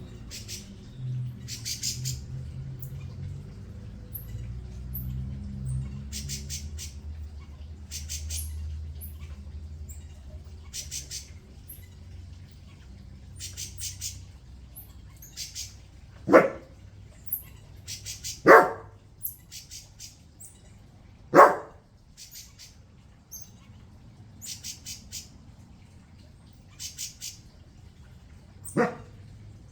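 Small animals in a tree giving repeated high-pitched chirping trills, with four loud short barks in the second half, the last near the end.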